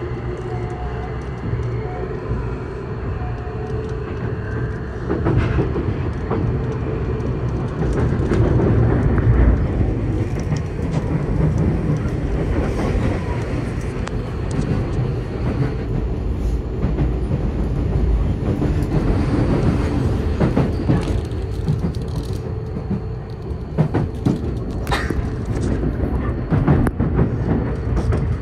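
Tokyu new 5000 series commuter train (set 5116F) running, heard from inside the car, with its Hitachi IGBT-VVVF traction equipment. A faint pitched whine sounds over the first few seconds, then a steady wheel-and-rail rumble with scattered clacks over rail joints, several of them near the end.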